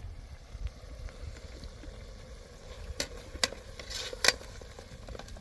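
A handful of sharp knocks, about five in quick succession starting about three seconds in, over a low steady rumble.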